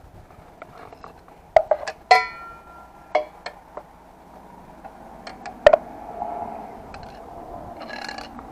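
Metal tools or parts being handled: a few sharp clicks and knocks, and one metallic clink about two seconds in that rings briefly.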